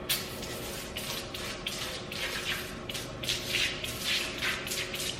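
Engine degreaser being sprayed in quick, repeated hissing squirts, about two or three a second.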